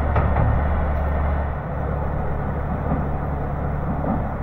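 Single-car diesel railcar running across a railway bridge: a steady low rumble with a few faint clicks from the rails just after the start, easing slightly about a second and a half in.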